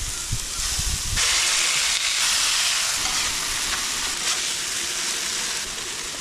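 Burgers sizzling as they cook, a steady crackling hiss, with a few low thumps in the first second.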